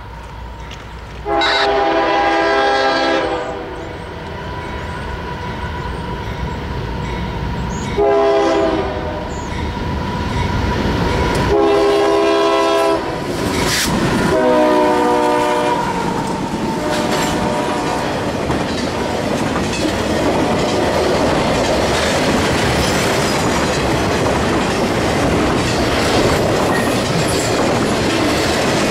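CSX freight train's diesel locomotive air horn sounding four blasts, several tones together, for a grade crossing, then the locomotives pass close by and intermodal cars carrying truck trailers and containers rumble and clatter past, wheels clicking over the rail joints.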